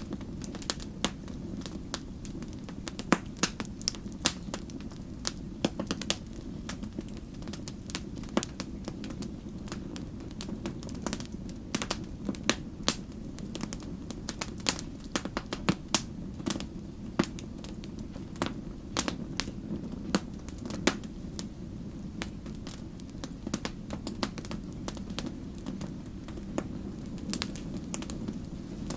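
Wood campfire burning: frequent sharp crackles and pops at irregular intervals over a steady low rumble of the flames.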